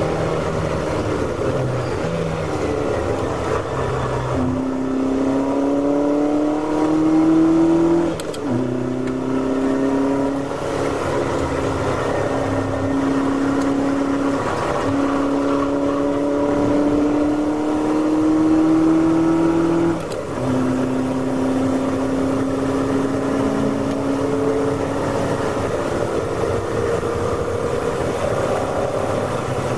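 In-car sound of a classic Ferrari V8 race car's engine pulling under load. The note climbs slowly, then breaks and drops at gear changes or lifts about 4, 8 and 20 seconds in. The engine is held at moderate revs, short-shifted because it is running hot.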